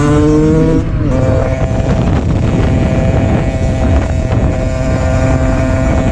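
Car engine accelerating over road and wind rumble. Its pitch rises, drops about a second in, and then holds steady.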